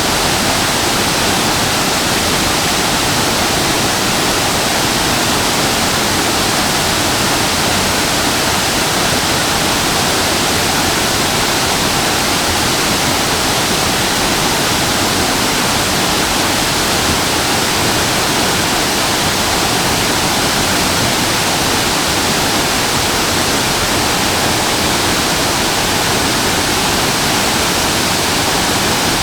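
Shasui Falls waterfall: water falling and splashing in a steady, unbroken rush that does not change.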